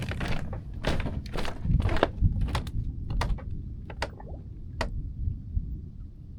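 A run of irregular knocks and scuffs, about a dozen in the first five seconds, over a steady low rumble.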